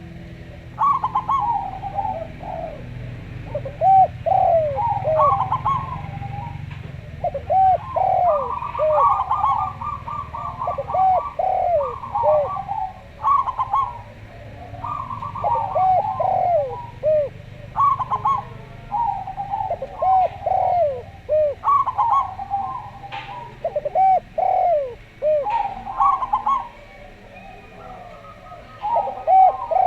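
Zebra dove and a second dove (derkuku) cooing throughout in repeated phrases. There are quick stuttering runs of notes alternating with rounder, arched coos, over a faint low hum.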